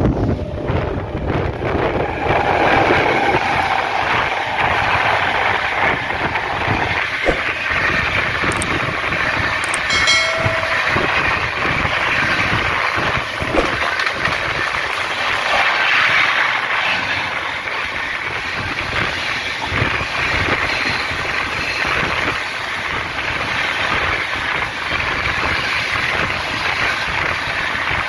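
Steady rumble and clatter of steel wheels on rail from a moving MEMU train, with the coaches of a passing Rajdhani Express running close alongside on the next track. There are occasional sharp clicks, and a short pitched tone about ten seconds in.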